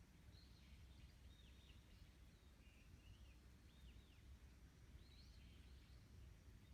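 Faint birdsong: short, high chirping phrases repeating every second or so, over a low steady wind rumble.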